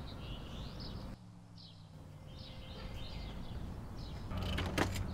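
Scattered short bird chirps over a steady low background hum, which drops out briefly about a second in.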